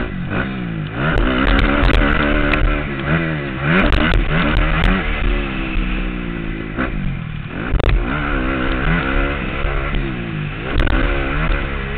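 Motocross dirt bike engine heard from the rider's helmet, revving up and falling back again and again as the throttle is worked, with sharp clacks and knocks scattered through. The engine drops away briefly about seven seconds in, then picks up again.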